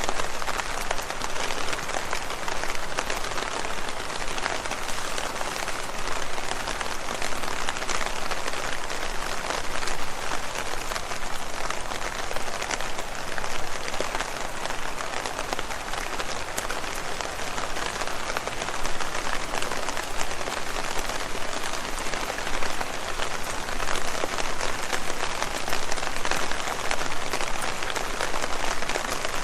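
Steady rain pattering on leaves: a dense, even patter of many drops.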